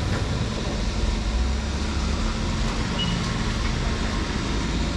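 Steady road traffic noise with a low vehicle engine rumble and a brief high tone about three seconds in.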